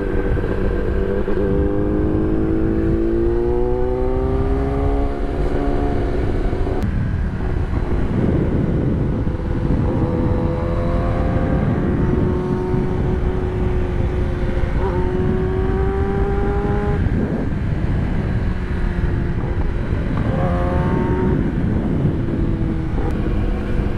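Kawasaki ZX-10R inline-four sport motorcycle engine, heard from the rider's seat, rising in pitch under throttle in several pulls and dropping back between them, over steady wind rush on the microphone.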